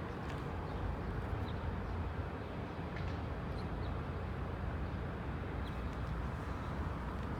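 Outdoor background: a steady low rumble with a few faint, short, high chirps scattered through it.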